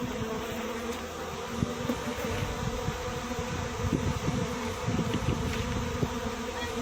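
Dense swarm of honeybees buzzing at a hive: a steady, many-voiced hum, with scattered soft knocks.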